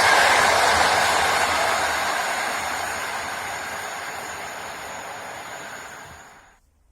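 Passenger train running past, its rail and wheel noise fading steadily as it moves away, then cut off abruptly near the end.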